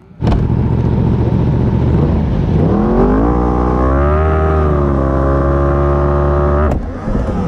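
Racing motorcycle engines on a starting grid, heard onboard a Yamaha R1 with its inline-four. The sound comes in suddenly, then the revs climb and are held steady at high revs for the launch. The sound breaks off abruptly with a click just before the end.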